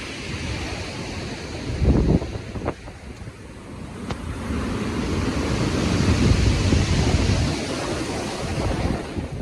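Stormy sea: waves breaking and surf rushing, with wind gusting on the microphone. Low rumbling surges about two seconds in and again in the middle, over a steady hiss of surf.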